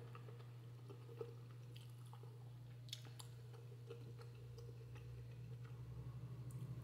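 Faint close-up chewing of a mouthful of instant noodles, with a few small mouth clicks over a steady low hum. A low rumble swells near the end.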